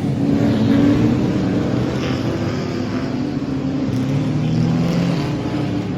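Vehicle engines running, a steady low note with a second engine's pitch rising and falling about halfway through.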